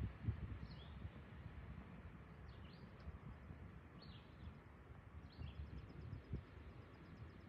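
Small birds chirping, with a few short downward calls and then a fast trill of rapid high ticks from about halfway, over a faint low rumble with an occasional thump.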